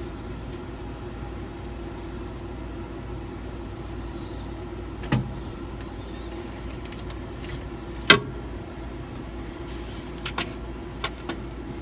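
Hand tools working on the airbag's mounting hardware: a few sharp clicks and knocks, the loudest about five and eight seconds in and a quick run of them near the end, over a steady hum.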